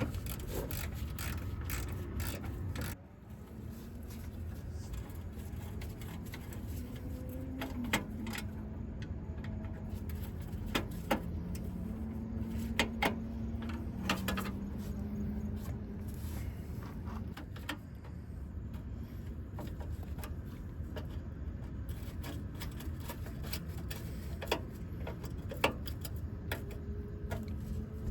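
Hand tools working on metal engine parts: scattered clicks, clinks and knocks over a steady low background hum.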